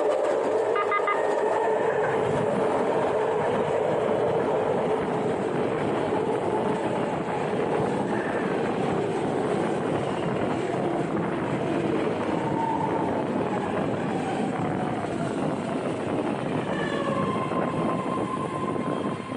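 BART legacy-fleet train running on the track, a steady loud rumble with a whine in it. A steady higher-pitched tone joins near the end.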